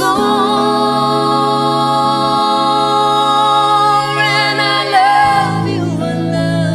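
A ballad sung over sustained low keyboard chords: one long held note with vibrato, then a short run of notes about four seconds in that trails off near the end.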